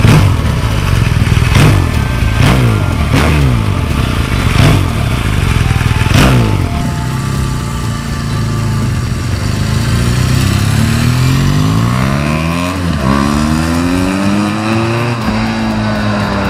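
BMW R 1200 GS boxer-twin engine revving in a string of quick throttle blips, each rising and falling in pitch. It then pulls in long climbing revs, with a brief dip about 13 seconds in, like a gear change under acceleration.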